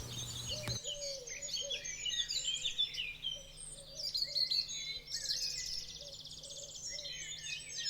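Several birds chirping and singing, many short overlapping calls, with a rapid trill about five seconds in.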